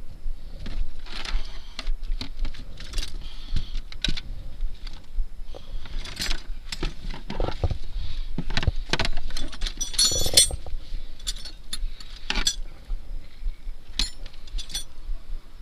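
Metal clinking and knocking in scattered taps, with a louder run of bright jingling clinks about ten seconds in.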